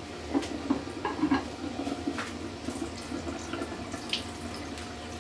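Kitchen tap running water into a sink while a plastic plate is rinsed, with a few light knocks as it is handled.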